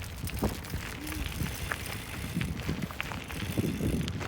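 Bicycle rattling over rough ground, with a steady low rumble of wind on the microphone and scattered clicks and knocks.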